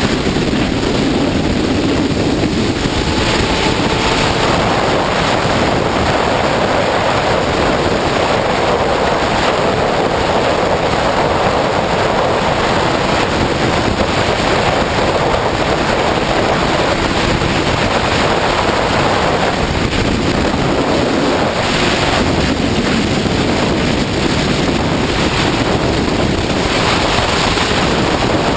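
Steady, loud wind roar over the microphone of a sportbike ridden at freeway speed, with the motorcycle's engine faintly beneath it.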